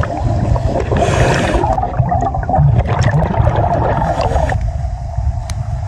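Underwater sound: a steady low rumble with gurgling water.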